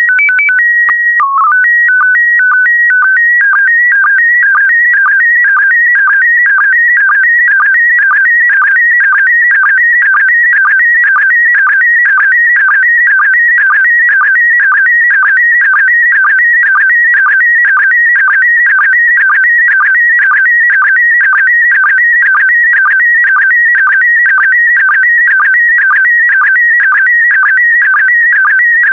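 Slow-scan television (SSTV) picture signal in PD120 mode. It opens with a few seconds of steady and alternating tones, with a brief low tone about a second in, then becomes a fast, steady warble repeating about twice a second as the image is scanned.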